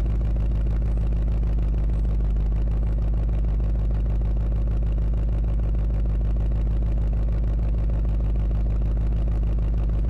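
Ford Mustang GT's 5.0-litre V8 idling steadily, a low, even exhaust pulse with no revving.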